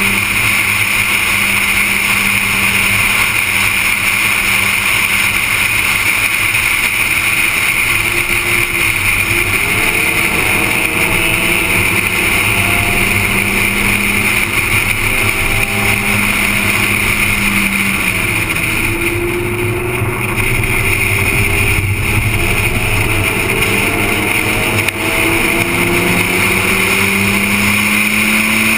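Car engine pulling hard on a racetrack, its pitch climbing repeatedly and dropping back at gear changes and lifts for corners. A heavy, steady rush of wind and road noise lies over it.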